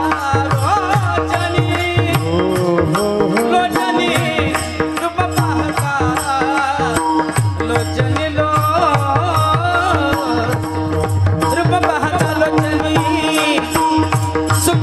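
Marathi devotional abhang music: a pakhawaj (mrudang) plays a steady rhythm of strokes under a held drone. Over it runs a bending melodic line, sung on drawn-out vowels without words.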